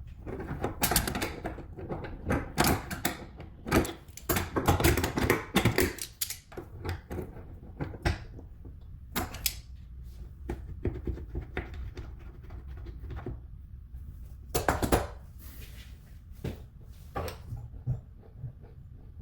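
Irregular clicks, clacks and knocks of small hard parts being handled and fitted, as during work on a faucet, with the densest clattering in the first few seconds and another flurry past the middle.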